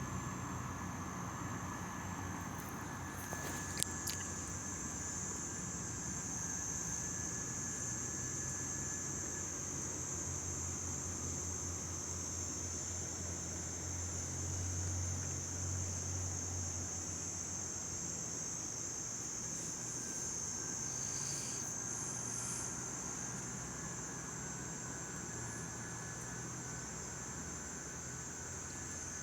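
Steady chorus of insects: a continuous high, shrill trill over a low steady hum. There is one sharp click about four seconds in.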